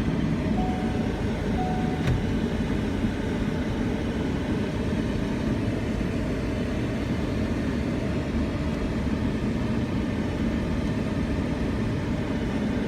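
Truck driving, heard from inside the cab: a steady engine and road noise. For the first couple of seconds a short chime beeps about once a second, then stops.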